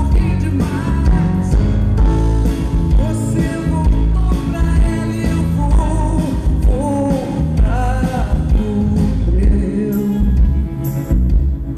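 Live band music with a woman singing the lead vocal in Portuguese over a steady beat. The vocal line drops out near the end.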